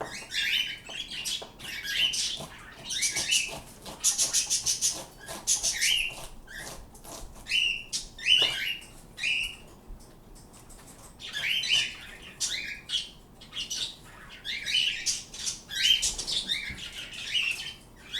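Pet birds calling: many short, high chirps and sharp calls, one after another, with a fast rattling series about four seconds in.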